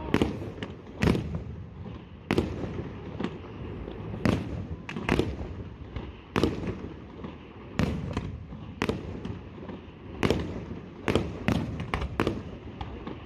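Fireworks display: aerial shells bursting in a string of sharp bangs, about one a second at irregular spacing, with a low rumble between them.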